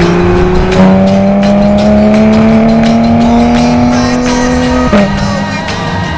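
Car engine on a race track, running hard under acceleration. Its pitch jumps up about a second in, climbs steadily for about four seconds, then drops sharply near the end as it shifts up a gear.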